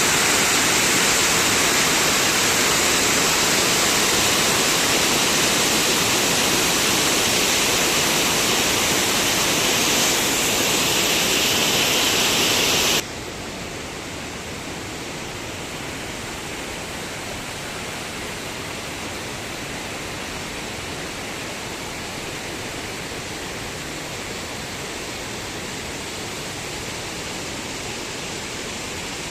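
Steady rush of falling water, loud and hissy, which cuts suddenly to a quieter, duller rush a little before halfway through.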